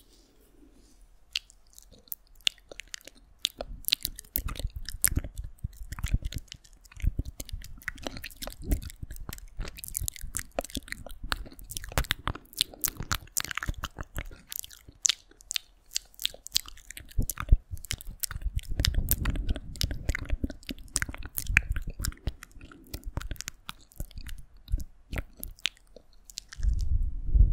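ASMR mouth sounds close to the microphone: a dense, irregular run of wet clicks and smacks, with a few soft low thumps now and then.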